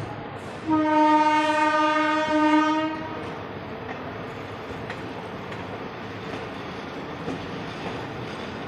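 Train horn sounding one steady blast of about two seconds, starting just under a second in, followed by the even running noise of the moving train.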